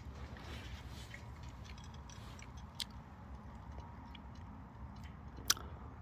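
Mini pine firewood crackling as it burns in a wood stove: scattered sharp pops and clicks over a steady low rumble of the fire. The loudest pop comes about five and a half seconds in.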